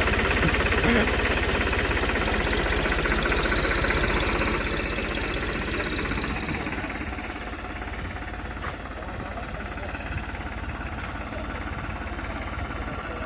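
Tractor diesel engine running just after being started, with a fast, even knocking pulse; it settles to a slightly lower level about four to five seconds in.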